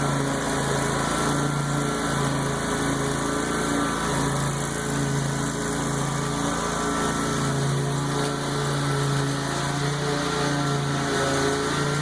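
Lawn mower engine running steadily while cutting tall, overgrown grass, its pitch wavering slightly with the load.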